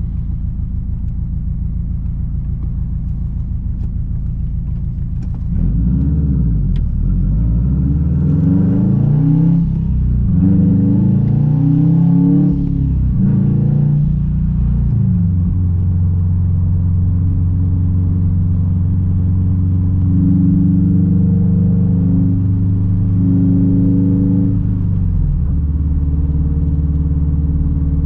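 2006 Subaru WRX STI's turbocharged 2.5-litre flat-four through a straight-pipe exhaust. It runs steadily, then about five seconds in gets louder and revs up in several rising pulls as the car accelerates. It then settles into a steady drone, which drops to a lower steady note near the end.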